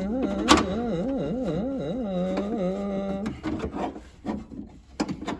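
A man's voice singing one long drawn-out note in a mock-operatic style, its pitch wavering up and down, breaking off about three seconds in. After it come a few light clicks and knocks of parts being handled.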